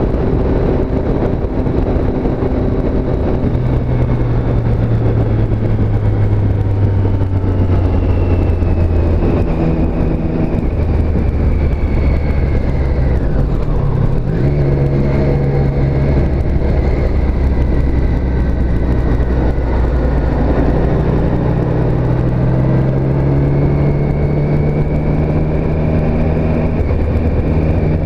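2017 Triumph Street Triple S's 765 cc three-cylinder engine running under way, heard from the bike, its pitch rising and falling with the throttle. About halfway through, the engine note breaks off briefly and drops in pitch, as at a gear change.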